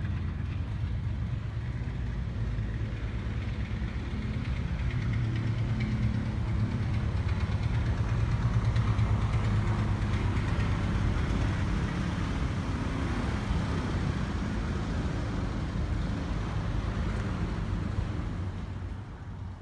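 A motor engine running steadily with a low hum, growing louder toward the middle and fading near the end.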